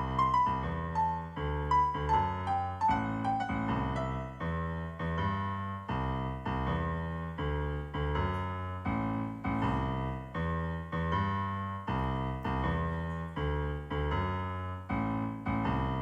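Background piano music: gentle notes struck about twice a second, each fading before the next, with a stepwise falling melody near the start.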